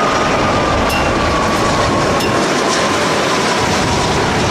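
Electronic sound effect from a battery-powered toy vehicle: a steady rushing engine noise with a faint whine that slowly falls in pitch.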